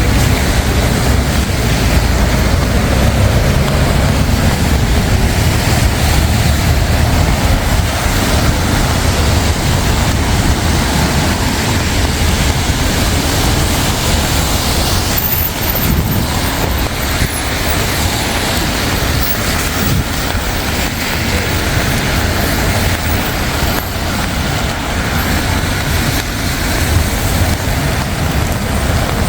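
Steady city road traffic: passing cars and buses with a low rumble, heaviest in the first several seconds and easing after.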